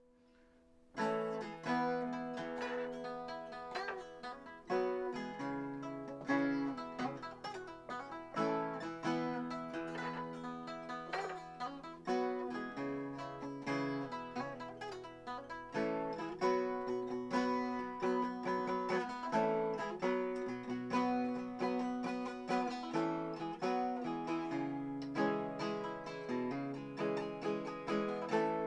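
Acoustic guitar picking a rhythmic instrumental introduction to a folk song, starting about a second in after a moment of near silence, with no singing.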